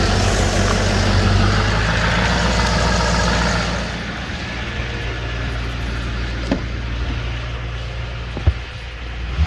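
Duramax 6.6L LMM V8 turbo diesel idling steadily, which the owner reports runs really well with no blowby. It drops a little in level about four seconds in, with two short knocks near the end.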